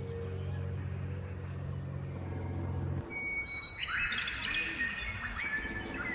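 Birds chirping, the calls becoming denser and busier in the second half, over a low steady drone that cuts off abruptly about halfway through.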